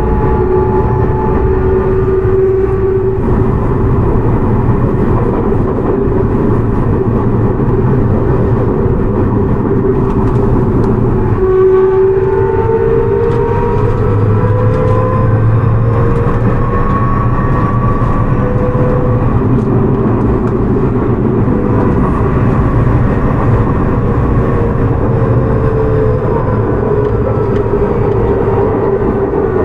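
Toei 6300 series (second batch) train running, heard from inside the car: wheel and rail noise with the whine of its Hitachi GTO-VVVF inverter and traction motors. The whine shifts and climbs in pitch from about twelve seconds in, then sinks slowly near the end.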